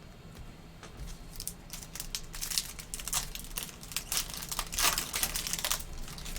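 A trading-card pack wrapper being torn open and crinkled by hand. It gives a run of crackling that starts about a second in, is loudest near the end and then stops.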